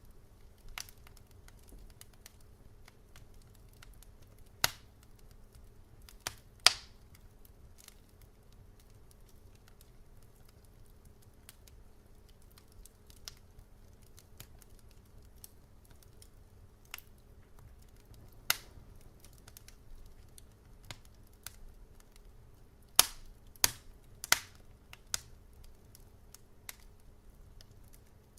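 Wood fire crackling in a fireplace: irregular small ticks and snaps with occasional sharp, louder pops, a quick cluster of them near the end, over a low soft rumble of the burning.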